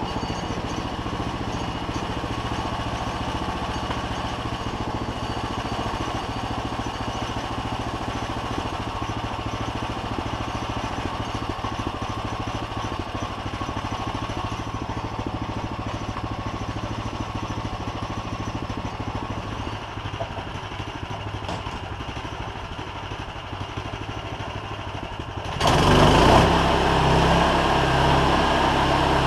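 An engine running steadily; near the end the sound abruptly gets louder and fuller.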